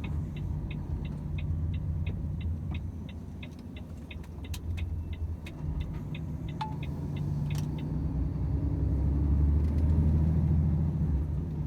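Volvo FH 500 truck's 13-litre straight-six diesel running under way, heard from inside the cab as a steady low drone that grows louder in the second half. A fast, even ticking runs over it and stops about seven seconds in.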